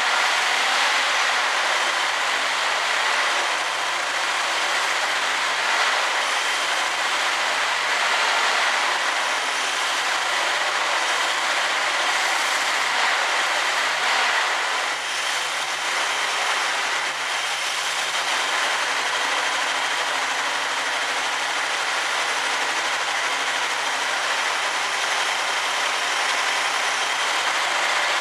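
1967 Chevy Camaro's V8 engine running with the air cleaner off its carburetor, a loud, steady, even noise with no change in speed.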